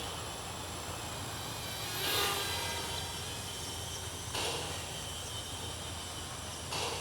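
Twin small electric motors of a toy RC Boeing 787 running steadily in flight, a high thin whine over a hiss, with brief whooshes about every two seconds.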